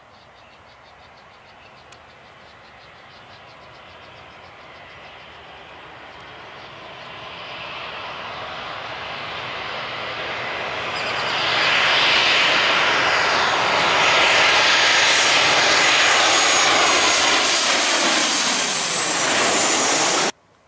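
Airliner passing low overhead: engine noise builds steadily from faint to loud over about twelve seconds, stays loud with whining tones that fall in pitch as it goes over, then cuts off suddenly near the end.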